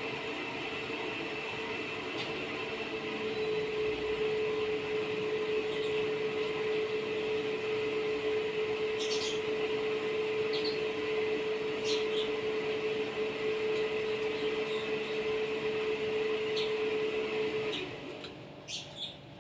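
A machine's steady drone with a constant hum, which cuts off suddenly near the end. A few short, high chirps sound over it.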